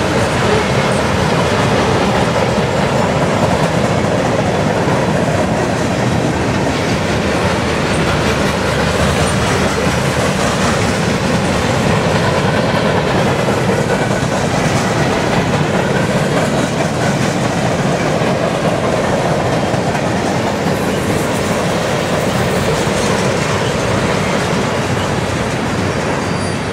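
Loaded freight cars (tank cars, covered hoppers and open hoppers) rolling past at track speed, with a steady rumble of steel wheels on rail that begins to fade near the end as the last car goes by.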